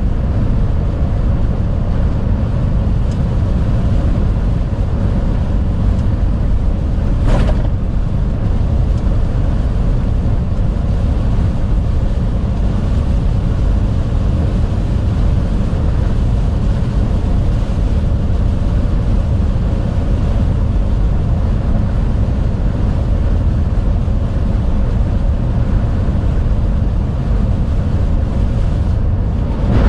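Steady low rumble inside a moving truck's cab on a highway in heavy rain and strong wind: engine, tyre and wind noise, with a single sharp knock about seven seconds in.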